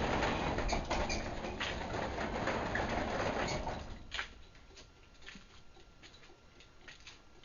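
Craftsman 3/4 HP belt-drive garage door opener's DC motor running as the door travels, stopping about four seconds in. A few faint clicks follow.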